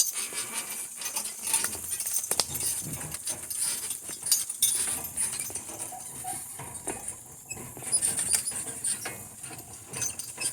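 Team of two harnessed donkeys moving off with a four-wheeled cart: an irregular clatter of hooves, jingling harness hardware and a rattling cart.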